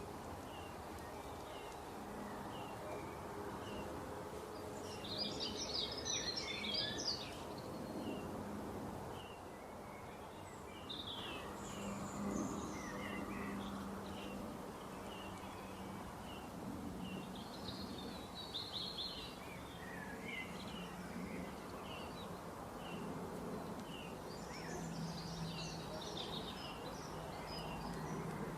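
Small birds chirping repeatedly in short high notes, with several bursts of faster twittering song, over a low steady background hum.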